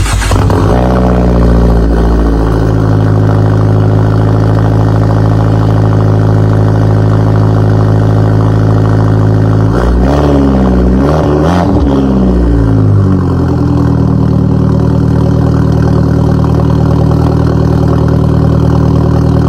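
Turbocharged Fiat engine catching on a cold start and settling into a loud fast idle. About ten seconds in, the engine speed wavers up and down for a few seconds, then settles into a slightly lower, steady idle.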